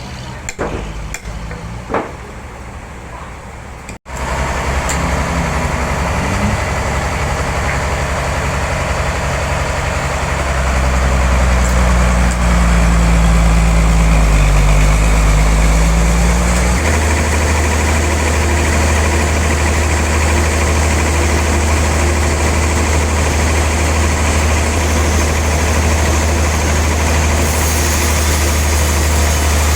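Heavy engine running loud and steady, its pitch wavering briefly and then settling. A few light clicks and knocks come before it in the first four seconds.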